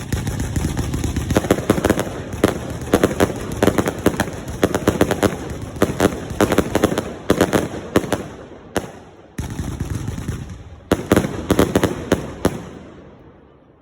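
Firework barrage: a dense, rapid run of bangs and crackle that starts suddenly, drops off briefly just before ten seconds in, picks up again with a cluster of louder bangs and dies away near the end.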